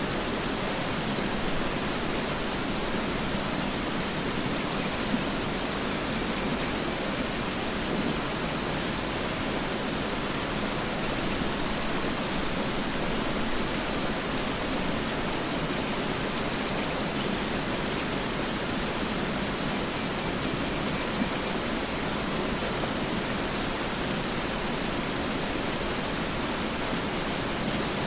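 Mountain river flowing steadily, a constant even rush of water with no changes.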